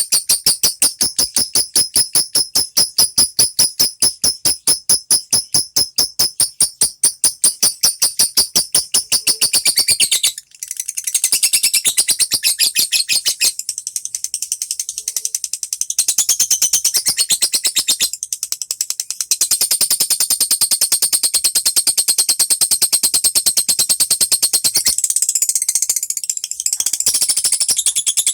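Lovebird calling in a long unbroken chatter of rapid shrill chirps, about six a second, with one short break about ten seconds in.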